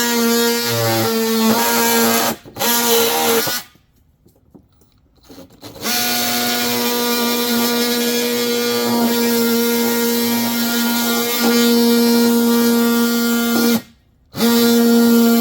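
Electric power tool motor running at a steady speed while cutting PVC pipe, with a brief drop-out about two seconds in, a longer silent gap of about two seconds near the four-second mark, and another short gap near the end.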